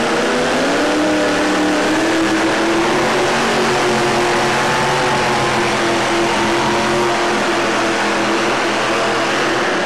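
Supercharged funny-car pulling vehicle's engine running at high revs as it drags the weight-transfer sled down the track, rising in pitch over the first second and then holding steady and loud.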